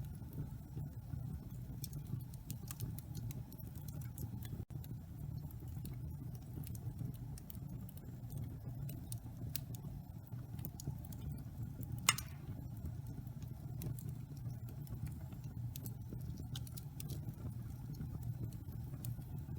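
Wood fire crackling in a fireplace: a steady low rumble of the flames with scattered small pops and ticks, and one louder pop about two-thirds of the way through.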